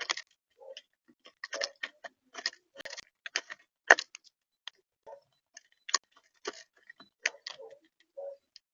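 Irregular sharp taps and clicks, close to the microphone, with a few short duller knocks among them: birds pecking at seed and shifting on a bird feeder.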